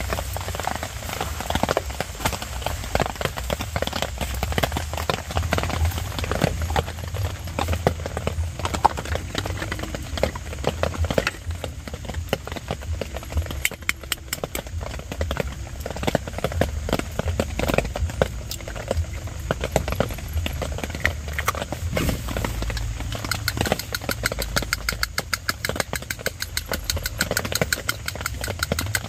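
Rain pattering on a tent over a low rumble, with cloth and a plastic bowl being handled. In the last few seconds a fork beats a raw egg in the bowl in quick, even clicks.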